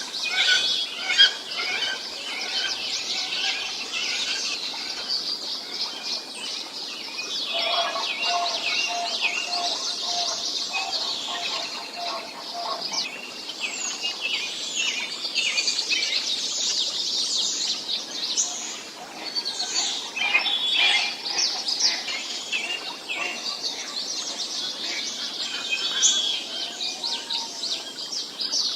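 Many birds chirping and calling at once in a dense, continuous chorus, with a lower call repeated rapidly for several seconds about a third of the way in.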